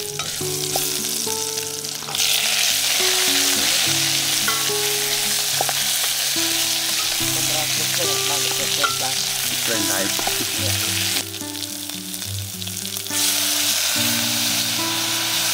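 Chopped ingredients, with lemongrass and greens among them, sizzling as they fry in a small pot over a wood fire, with a spoon stirring them. The sizzle starts about two seconds in, drops away briefly near eleven seconds and comes back.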